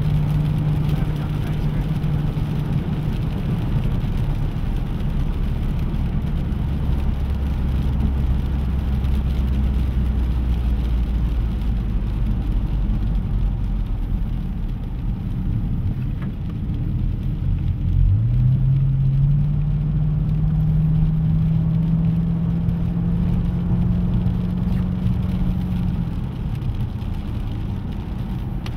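Chevrolet Camaro SS V8 heard from inside the cabin on a lap. The engine note sits lower through the middle, then rises sharply about two-thirds in as the car accelerates hard, climbing steadily before easing off near the end.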